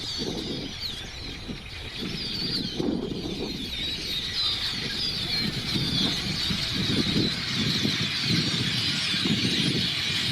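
A huge mixed flock of blackbirds and red-winged blackbirds calling all at once: a dense, steady chorus of squeaky chatter, with a low uneven rushing underneath.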